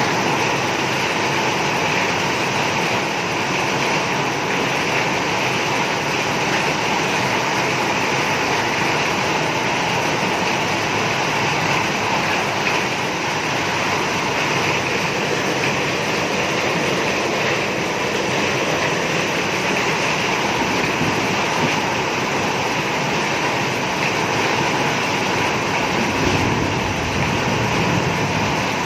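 Heavy rain pouring down with floodwater running, a dense steady rushing noise that holds even throughout.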